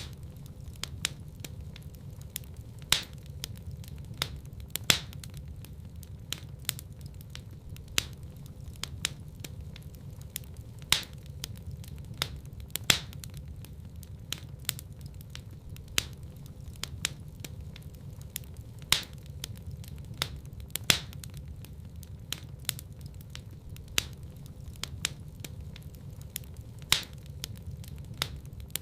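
Wood fire crackling in a fireplace: a steady low rumble of flames under frequent sharp snaps and pops, with a louder pop every few seconds.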